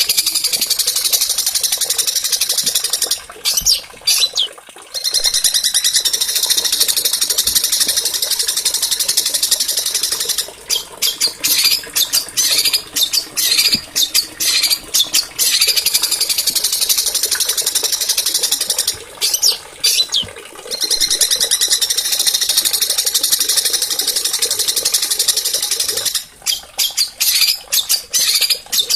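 Small songbird singing: long, very high, fast rattling trills held for several seconds at a time, alternating with quick bursts of sharp chips.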